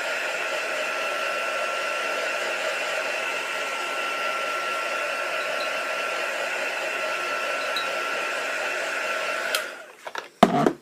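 Handheld electric dryer blowing steadily with a constant whine, drying acrylic paint. It switches off about nine and a half seconds in, followed by a few sharp knocks.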